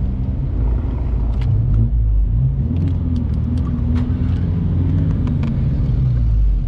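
Car engine running at low revs inside the cabin, a steady low rumble whose pitch wavers gently as the car idles or creeps along, with a few light clicks and rattles.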